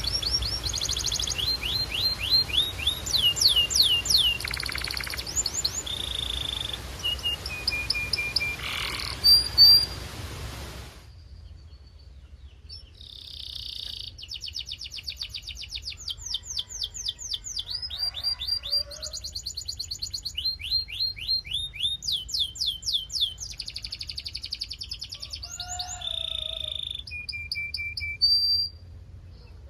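Belgian canary singing: fast trills of repeated sweeping notes mixed with rolling passages and a few held, steady whistled tones, with a brief pause about eleven seconds in.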